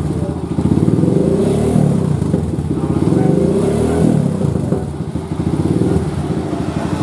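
Kawasaki KLX motorcycle's single-cylinder four-stroke engine running through an aftermarket GP7 exhaust, revved up and let back down a few times.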